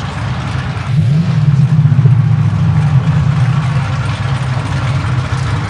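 Drag car engine running at low speed, its deep note stepping up slightly and getting louder about a second in, then holding steady.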